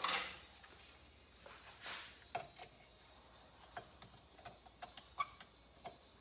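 Small metal clicks and taps of hand tools working a retaining clip off the shift shaft of a motorcycle engine case, with a short scrape at the start and another about two seconds in, then scattered single clicks.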